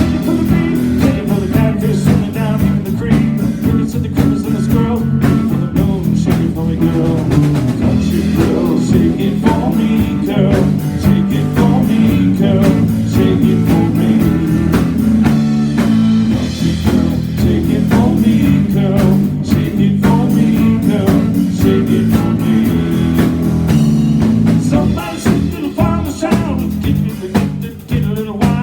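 A country-blues band playing: electric guitar, bass and drum kit with a steady beat, possibly with a singing voice.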